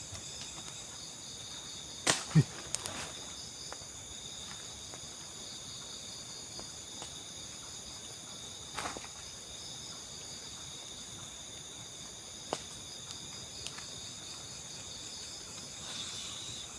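Steady high-pitched chorus of night insects in tropical forest. A few short sharp clicks or knocks cut through it, the loudest a pair about two seconds in.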